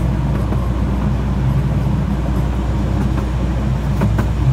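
Open carriage of a 12-inch gauge miniature railway rolling along the track: a steady low rumble of wheels on rails, with a few light clicks in the last second or so.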